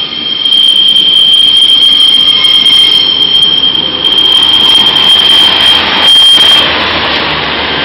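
Northern Class 142 Pacer diesel unit passing over the level crossing, its wheels giving a steady high-pitched flange squeal on the curve. The squeal stops about two-thirds of the way through, leaving the rumble of the train going close by.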